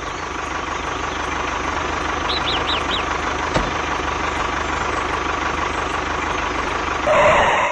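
Small engine running steadily with a fast, even pulse. Birds chirp briefly a few times over it, and the sound swells louder near the end.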